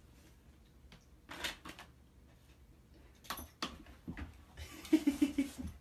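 A large dog squeezing through a small plastic pet door: short bursts of scraping and knocking as its body pushes past the flap and frame, then a quick run of rapid pulses near the end.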